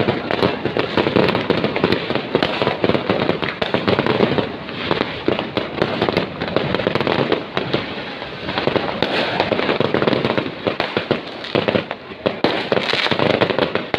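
Fireworks going off in rapid, overlapping bursts of pops, crackles and bangs, with hardly a gap between them.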